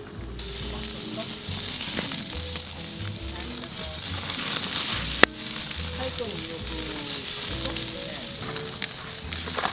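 Pork belly sizzling as it cooks, a steady hiss that cuts in suddenly just after the start, with one sharp click about five seconds in. Background music plays underneath.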